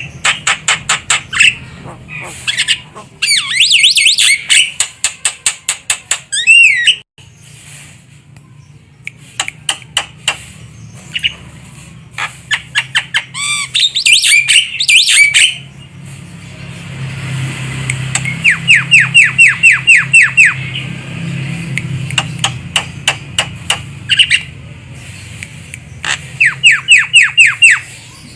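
Javan myna (jalak kebo) calling: repeated runs of fast, clipped notes mixed with harsh squawks and a few bending whistled notes, over a steady low hum.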